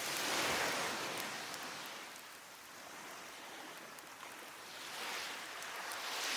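Sea waves washing onto the shore, swelling about a second in and again near the end, with scattered small crackles and pops from a wood fire.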